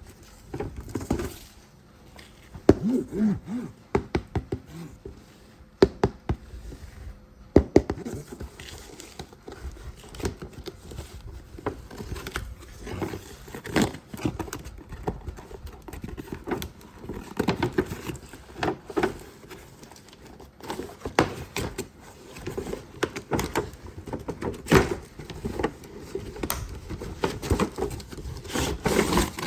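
Irregular clicks, knocks and scrapes of hard plastic toy parts being handled, with some scattered at close spacing.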